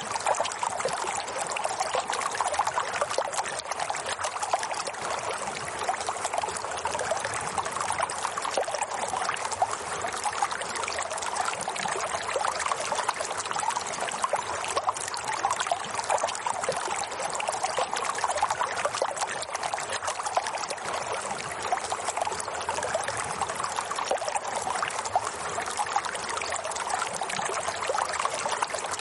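Flowing water trickling and splashing steadily, an even continuous rush with no pauses.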